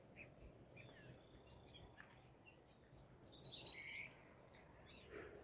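Faint, scattered bird chirps over near silence, with a louder short burst of high calls about three and a half seconds in.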